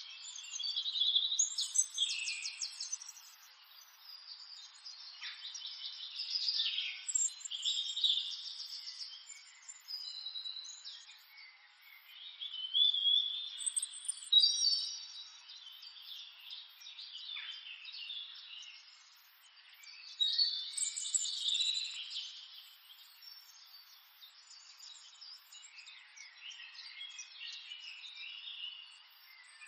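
Birds chirping and trilling in overlapping bursts, high and thin with no low sounds under them, thinning out toward the end.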